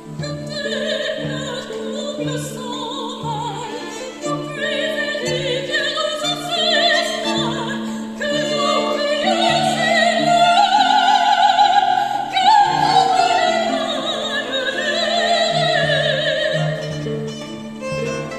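Soprano voice singing with wide vibrato alongside a violin, over a low pulsing drone. The voice swells to its loudest in the middle of the passage.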